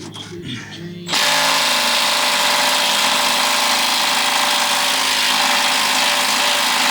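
Impact wrench running on seized bolt nuts, starting abruptly about a second in and running steadily. The nuts are too seized to come off and need heating with the torch.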